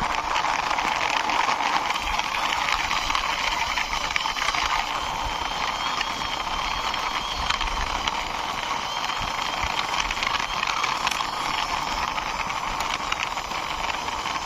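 Plastic toy drum truck pushed by hand along a wall: its wheels roll and rattle over the surface in a steady rough rumble with fine clicking.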